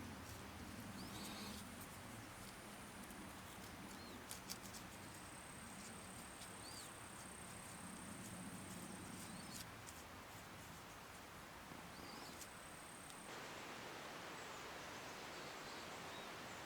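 Faint woodland ambience. An insect gives a steady high-pitched trill for several seconds in the middle, a few birds make short chirps, and there are a few light clicks. Near the end the background hiss changes abruptly.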